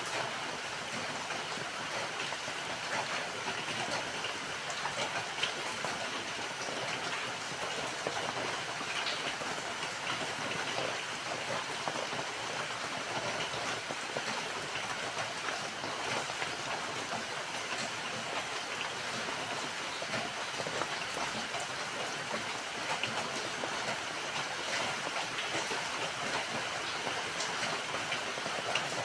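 Steady rainfall, with many small drops ticking on a surface.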